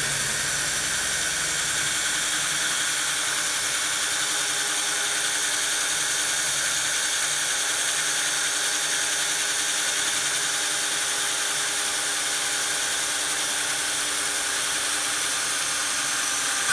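Electric drill running steadily as it bores a 4.5 mm hole in a vintage quick-release skewer lever, with a steady high-pitched whine.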